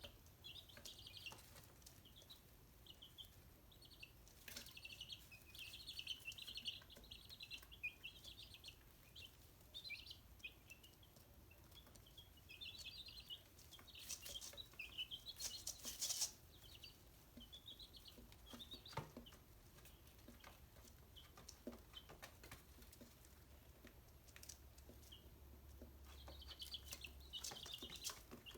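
Chicks peeping in many short, high chirps, busiest in clusters, with a few sharp taps here and there.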